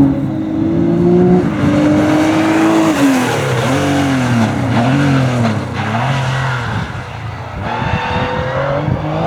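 Historic Porsche racing car engine running at high revs, pitch held high for about three seconds. The pitch then dips and rises several times in quick succession, and climbs again near the end.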